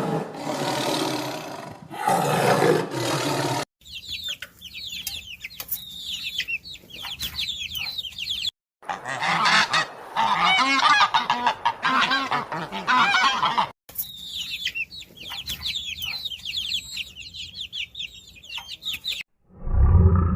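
A flock of waterfowl honking, with many short overlapping calls, in several clips joined by abrupt cuts. The densest, loudest honking comes in the middle, and the sound cuts out shortly before the end.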